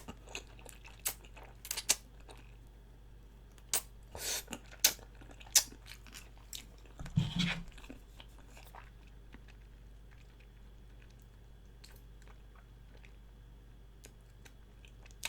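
Close-miked eating sounds: open-mouthed chewing with scattered short smacks and clicks, one louder one about seven seconds in, growing sparse in the second half.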